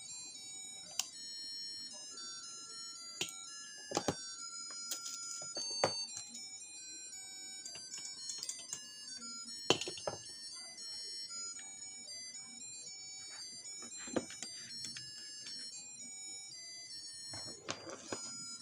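A crystal-ball party light's built-in music chip playing a simple electronic tune of beeping, stepped notes. Several sharp clicks and knocks are heard over it.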